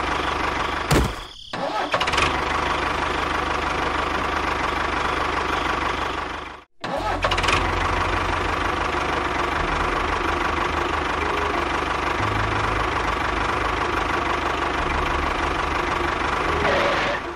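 Tractor engine running steadily with a low knocking chug, breaking off briefly about a second in and again near the middle.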